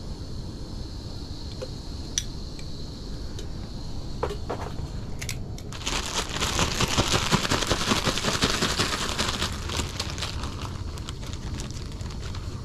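Battered fish fillets frying in hot oil: after a few light clicks, a loud sizzling crackle starts suddenly about halfway through and keeps going, over a low steady rumble.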